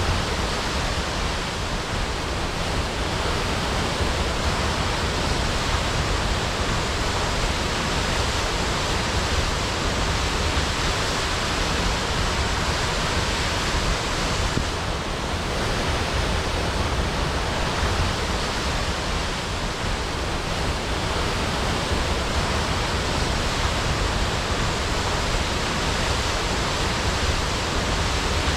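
Waterfall crashing: a steady, loud rush of falling water with no let-up.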